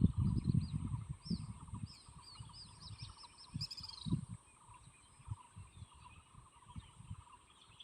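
Wild birds calling and chirping, with a quick run of repeated falling notes about two seconds in. Wind buffets the microphone with low rumbling gusts in the first couple of seconds, and a steady high-pitched hum runs underneath.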